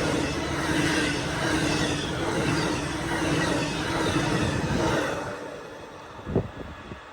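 Amtrak passenger train rolling past, a dense rumble of wheels on rail with faint squealing, fading away about five seconds in as the train clears. A single sharp knock near the end.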